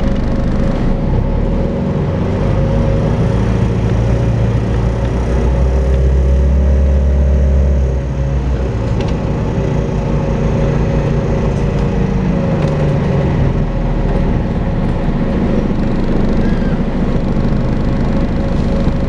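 Volvo B5LH diesel-electric hybrid double-decker bus on the move, with a steady vacuum-cleaner-like whine, the 'hoovering' noise, over its engine drone. The low engine note builds from about four seconds in and drops away sharply at about eight seconds.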